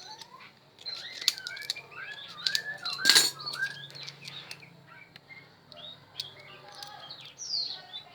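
Small birds chirping over and over, with sharp clicks and clinks of metal hand tools on the bench; the loudest is a clatter about three seconds in.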